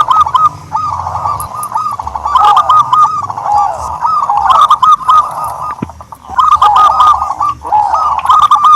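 Turtledove calling: runs of short, rapidly repeated cooing notes, with brief pauses between the phrases.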